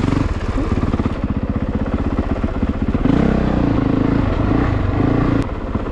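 A 2022 Honda CRF450RX's single-cylinder four-stroke engine runs under way on the trail. It pulls harder from about halfway, then eases off shortly before the end.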